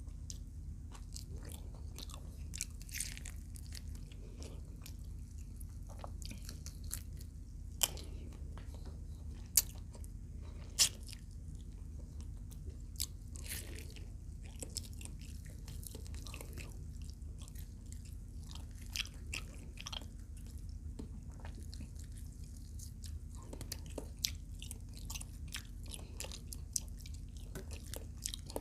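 A person chewing and biting into crunchy food close to the microphone, with scattered crisp crunches and wet mouth clicks and a few sharper clicks about eight to eleven seconds in, over a steady low hum.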